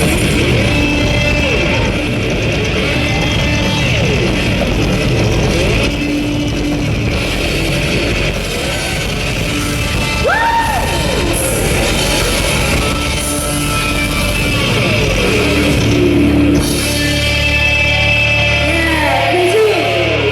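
Live rock band playing loud, heavy rock, with some vocals in the mix.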